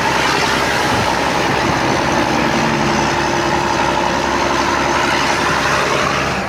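Renault 300's engine running steadily through an open, unmuffled exhaust.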